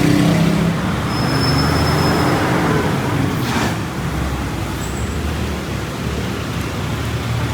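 Street traffic: vehicle engines running and passing over a steady wash of road noise, loudest in the first second.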